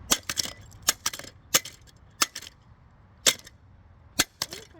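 Hammer striking a scooter part: about seven sharp, irregular knocks, some close together in pairs.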